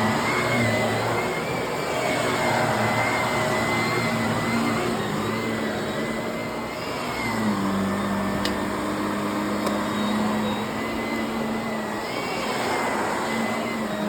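Shark vacuum cleaner running on carpet, a steady motor noise with a high whine that wavers slightly in pitch as the load shifts.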